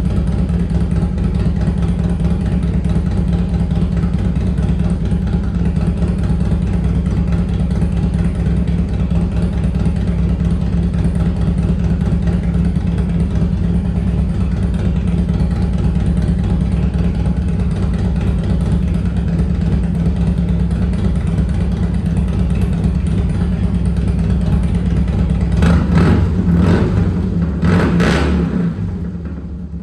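2005 Harley-Davidson FXDI's Twin Cam 88 V-twin idling steadily on its first start-up after an S&S cam plate, oil pump and cam chain tensioners were fitted, then blipped a few times near the end before the engine sound drops away.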